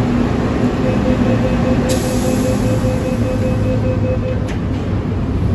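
MTR M-train electric multiple unit running, with a steady low rumble and a steady whine from its running gear that cuts off about four and a half seconds in. There are sharp clicks about two seconds in and again as the whine stops.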